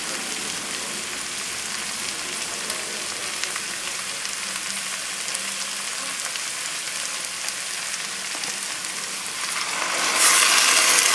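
Chicken thighs and vegetables sizzling steadily in a hot pot on a high gas flame, with small crackles. About ten seconds in, a cup of dry white wine is poured in and the sizzle suddenly gets much louder as the wine hits the hot pan.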